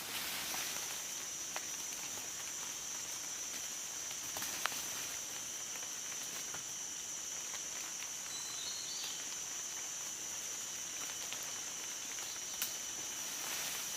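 An insect's steady high-pitched drone, coming in about half a second in, over outdoor background noise, with a couple of sharp clicks.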